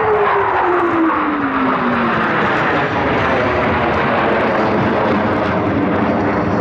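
Blue Angels F/A-18 Hornet jet passing by, its engine tone falling in pitch over the first two seconds as it goes past, then steady jet engine noise.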